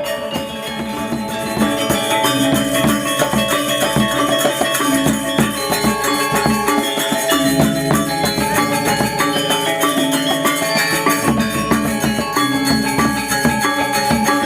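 Balinese gamelan music: bronze metallophones struck in fast, dense patterns over drums and shimmering cymbals.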